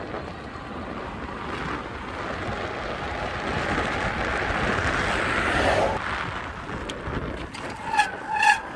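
Wind rushing over the microphone with road noise from a moving electric bike, building for several seconds and then easing off. Near the end come two short high squeals from the bike's brakes, which are worn out.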